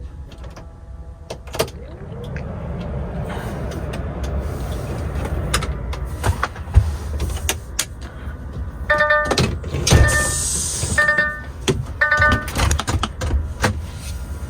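DAF XF truck cab on the move: a steady low engine and road rumble with scattered clicks and rattles. From about nine seconds in, a pitched electronic tone sounds in four short bursts.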